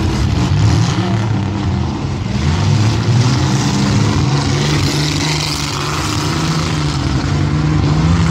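Several demolition-derby compact cars' engines running and revving at once, their pitches rising and falling against each other, with a haze of crowd noise behind.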